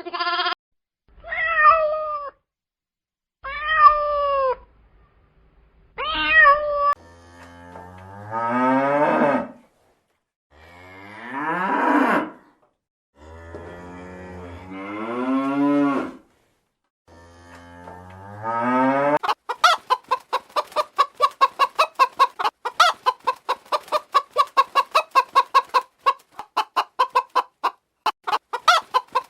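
A cat meowing four times, short calls falling in pitch. Then a cow mooing four times in long, rising calls, and from about two-thirds of the way in, chickens clucking in a rapid run of short clucks.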